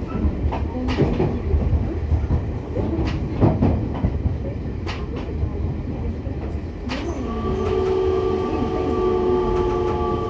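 Inside an E501 series electric train's motor car: low rumble with scattered knocks and clunks, then about seven seconds in the traction inverter starts up with a steady whine of several held tones as the motors take power to move off.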